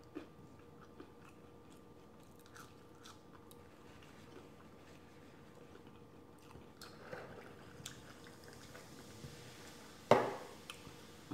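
Quiet chewing of fried seafood with small crunches, then sparkling water fizzing as it is poured from a can into a glass. A single sharp knock about ten seconds in, the loudest sound, as the can is set down on the table.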